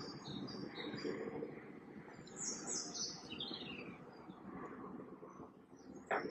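Small birds chirping and twittering over a steady background hiss, with one sharp click near the end.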